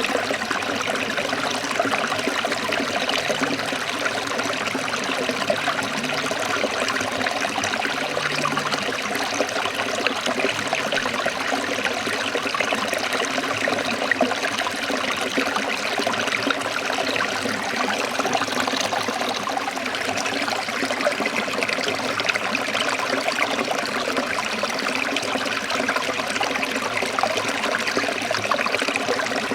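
Forest stream of water trickling and splashing steadily over rocks.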